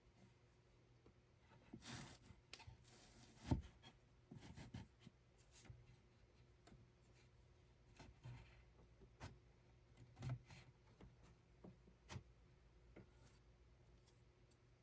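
Near silence broken by faint rustling and rubbing and scattered light taps, with one sharper knock about three and a half seconds in.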